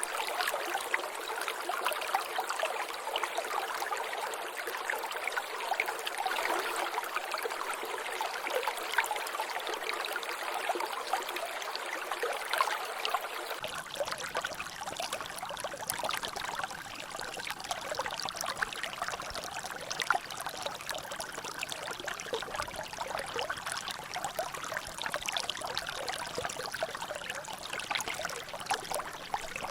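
Water trickling and dripping in a natural drainage channel, a steady wash dotted with many small drips and splashes. About halfway through the sound changes abruptly, becoming fuller and deeper.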